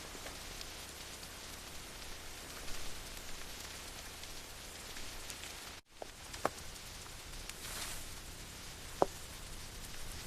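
Steady rain with a hiss, broken by a few sharp single drops or taps, two of them standing out in the second half. The rain cuts out for an instant about six seconds in.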